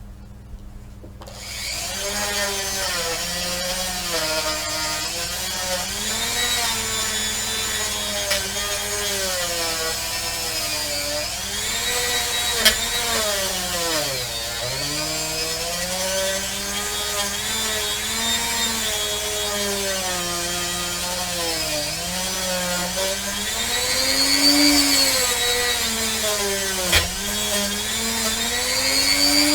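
Handheld rotary tool with a 240-grit sanding attachment, grinding down a pewter cast. The motor starts about a second in and runs with a whine that dips and rises in pitch as it is pressed against the metal and eased off.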